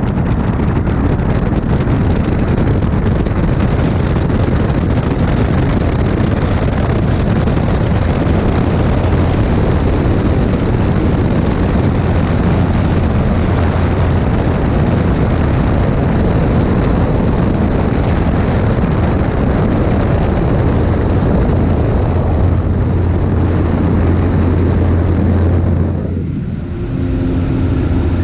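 Light airplane's piston engine and propeller running steadily at high power, a loud, even drone. About 26 seconds in, the sound dips briefly and gives way to a smoother hum with a few steady tones.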